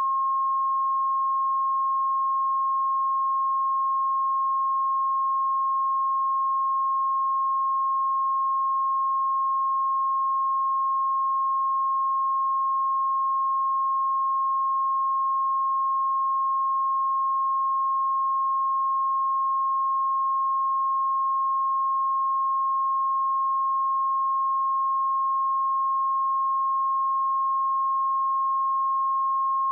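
Pure 1074 Hz sine-wave test tone, held steady and unbroken at one pitch and level.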